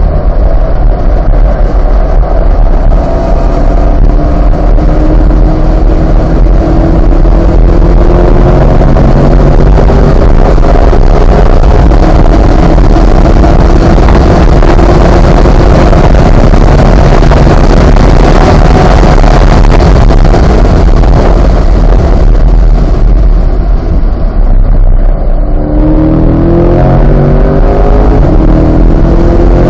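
Chevrolet C8 Corvette's 6.2-litre V8 pulling hard on track, its note climbing in pitch in several steps through the gears under heavy wind and road noise. Near the end the engine note drops away briefly, then climbs steeply again as it accelerates once more.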